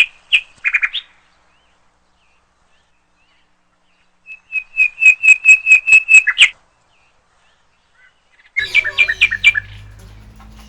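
Parrots calling loudly: a few short calls, then a fast run of about a dozen sharp squawks in about two seconds, and another burst of calls near the end over a low hum.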